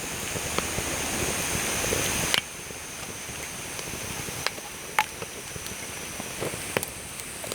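Campfire crackling, with irregular sharp pops over a steady hiss. The hiss grows louder for about two seconds and then cuts off suddenly.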